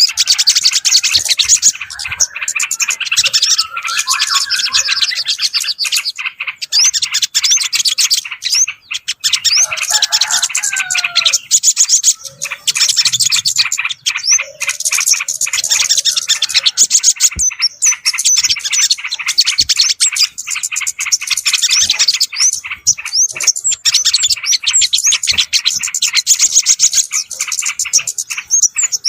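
A dense, continuous chorus of small birds chirping and twittering rapidly, with a few lower whistled phrases about 4 and 10 seconds in. It is a bird-lure (pikat) call recording meant to draw in yellow-vented bulbuls and other small birds.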